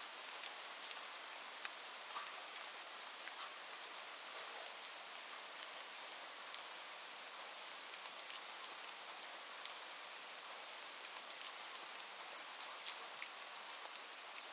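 Steady rain falling: an even hiss with many scattered, irregular drop ticks.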